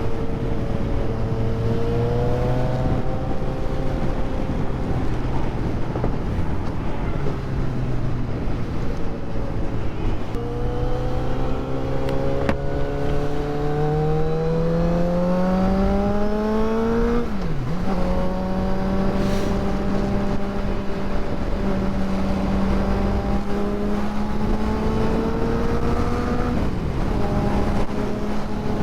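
Motorcycle engine under way at freeway speed, with heavy wind rush. About a third of the way in its pitch rises steadily as it accelerates. A little past halfway it dips sharply at an upshift, then holds a steady higher pitch at cruise.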